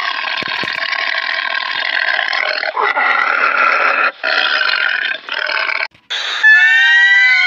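A tiger growling in long, rough, noisy stretches broken by short pauses. Then, after a cut, a ring-tailed lemur gives a high, drawn-out wailing call that glides slowly in pitch over the last second.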